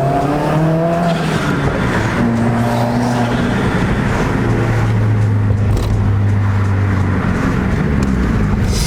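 Car engine accelerating hard. Its pitch climbs, drops back as it shifts about a second in, then climbs again, over steady road noise.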